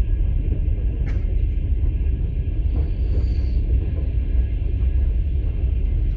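Passenger train running: a steady low rumble of the wheels on the rails, heard from inside a sleeper carriage.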